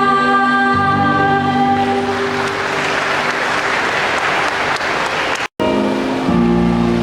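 A held final chord of the music ends, and an audience applauds for a few seconds. After a sudden brief dropout, the next piece of music begins with sustained notes.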